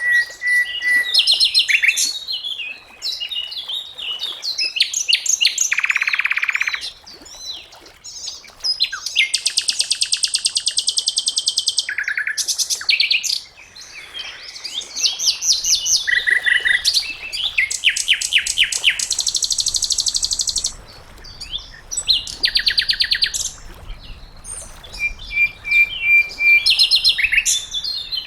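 A sikatan londo flycatcher singing a varied song: clear whistled notes near the start and end, fast rattling trills and rapid series of repeated high notes, phrase after phrase with short pauses between.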